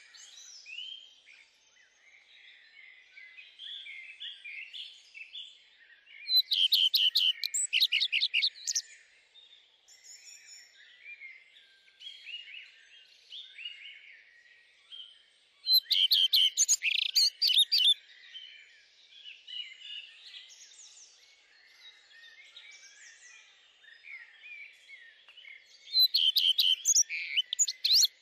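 Songbirds singing: a steady background of many overlapping chirps, with one louder, rapid song phrase repeated three times, about ten seconds apart.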